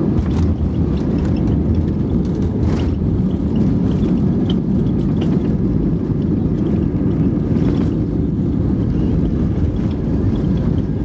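Airbus A320 cabin noise during landing: a steady low rumble of the engines and rushing air, with no marked change in level.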